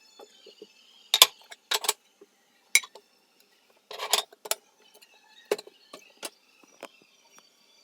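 A series of about eight sharp clinks and knocks as hard household objects are handled and set down, irregularly spaced, the loudest about a second in.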